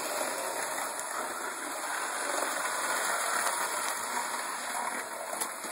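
OO gauge model train running along the track: a steady whirring hiss with a few faint clicks.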